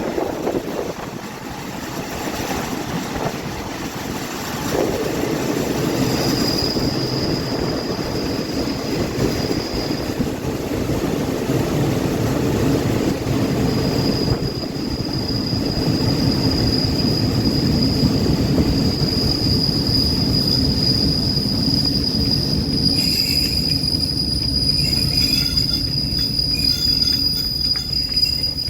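Passenger train running on the rails with a steady rumble and a thin, high-pitched wheel squeal. The squeal starts about six seconds in, drops out briefly, then holds.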